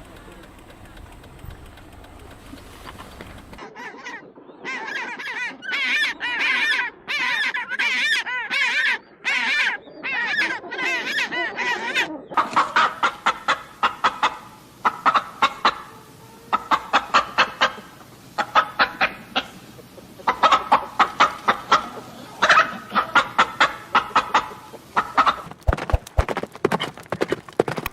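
A flock of birds calling over and over. After a quiet first few seconds come bursts of wavering calls, then from about the middle on, dense runs of quick, rapidly repeated calls.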